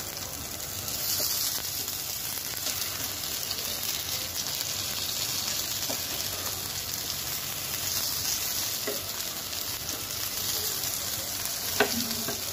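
Potato patties shallow-frying in oil in a flat non-stick pan, a steady sizzle, as a metal spatula turns them. There is one sharp knock about a second before the end.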